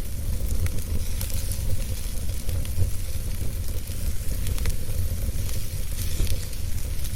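Wood fire burning: a steady low rumble and hiss with many small, scattered crackles and pops.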